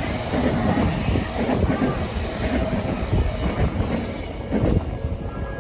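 Electric commuter train passing close by a level crossing: a loud, steady rumble of wheels on the rails, with sharp knocks here and there. The high end thins out near the end.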